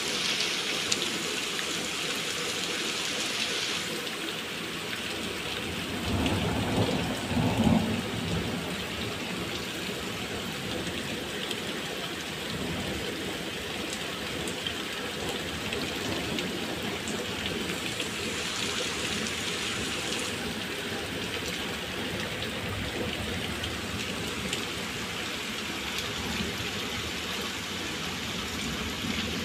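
Heavy rain falling steadily on wet paving, with a low rumble of thunder about six to eight seconds in.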